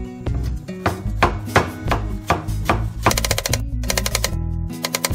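Chinese cleaver cutting potato into thin shreds on a wooden cutting board. A few separate knocks come first, then about three seconds in a fast run of rapid chops. Background music plays underneath.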